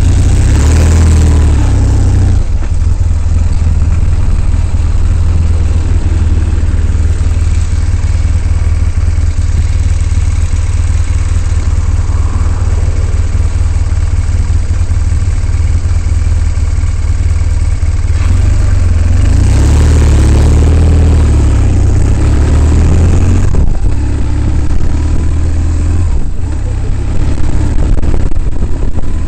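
Motorcycle engine running steadily under a constant rush of noise, swelling twice: about a second in and again around twenty seconds in.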